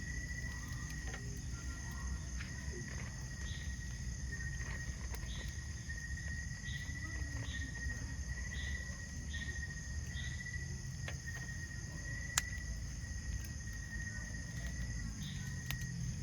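Insects calling in a steady chorus: a continuous high trill over a higher hiss-like buzz, with shorter chirps repeating a little more than once a second. A single sharp click comes about twelve seconds in.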